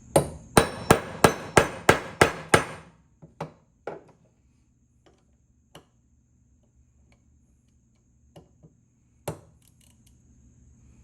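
Hammer blows on metal, eight quick strikes at about three a second, then two lighter taps and a single blow near the end: hammering to free a stuck screw on an old ratchet.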